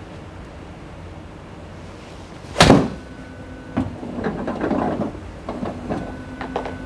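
A golf club striking a ball once: a single sharp crack about two and a half seconds in, followed by lighter clicks and clatter.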